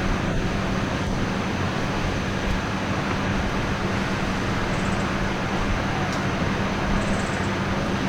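Steady rushing noise with a low hum underneath, like traffic noise. Two faint, brief high chirps come in the second half.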